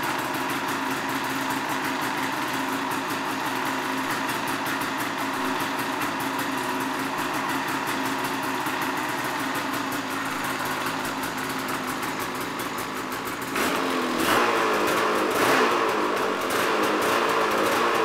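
2009 Ski-Doo Renegade 800R snowmobile's two-stroke twin-cylinder engine on its stock exhaust, idling steadily, then revved up several times, louder, in the last few seconds.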